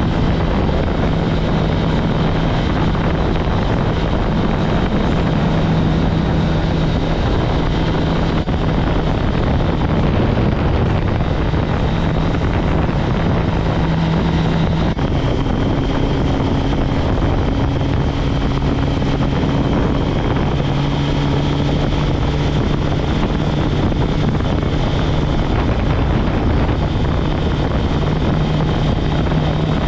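Kawasaki ZX-10R's inline-four engine running at a steady cruising speed, with wind rushing over the microphone. About halfway through, the engine note changes slightly.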